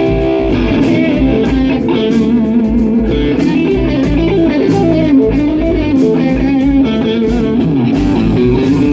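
Instrumental break of a band song: electric guitar playing over bass and a steady drum beat, with no singing.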